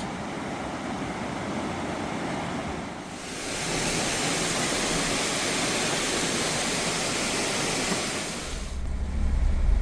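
Rushing floodwater of the swollen Holly River, a steady rush that gets louder and brighter about three seconds in. Near the end it fades and a low rumble comes in.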